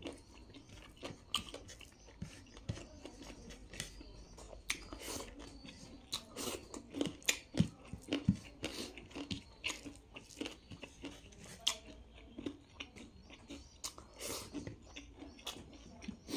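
Close-miked eating: wet chewing and biting with irregular crunches and mouth clicks, several of them louder around the middle.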